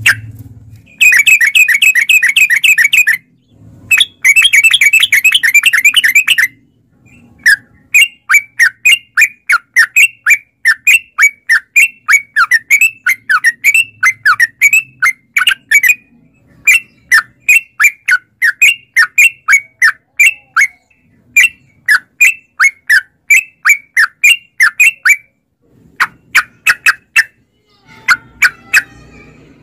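Yellow-vented bulbul (trucukan) singing: two long, rapid chattering phrases, then a long series of short repeated notes at about two a second, broken by brief pauses.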